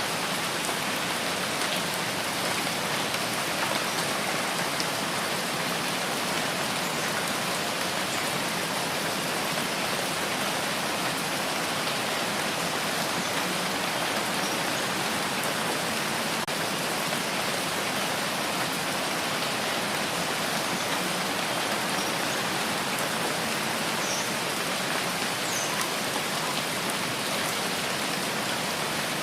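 Steady rain falling and pattering on surfaces, a constant even hiss with no pauses.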